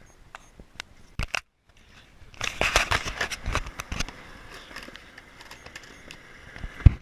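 Skateboard on wet pavement: scattered sharp clacks, then a crackling rolling stretch that fades, and a hard thud near the end as the board hits the ground.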